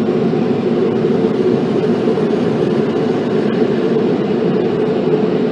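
Car wash air dryer blowers running steadily, a loud, even rush of air heard from inside the car.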